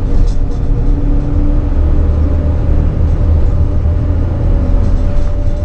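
Engine and road noise of a moving RV heard from inside the cab: a steady low rumble with a faint steady whine above it.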